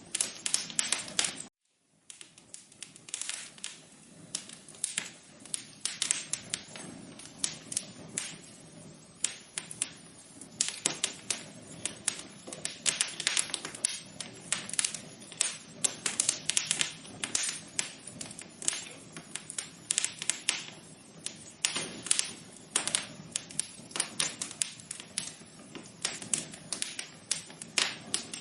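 Fire crackling in a fireplace: dense, irregular pops and snaps over a soft low rush. The sound cuts out completely for about half a second shortly after the start, then resumes.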